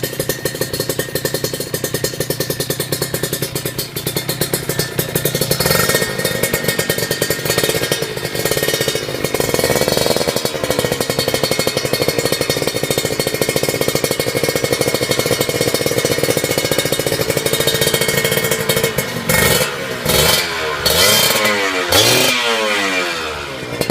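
Kawasaki Ninja R/RR two-stroke single-cylinder engine running through an aftermarket exhaust, with a fast, steady pulsing at idle. Near the end it is revved several times in quick succession, the pitch rising and falling with each blip.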